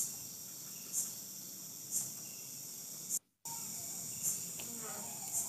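Night insect chorus of crickets: steady high-pitched trilling, with a louder chirp about once a second. The sound cuts out completely for a moment a little past the middle.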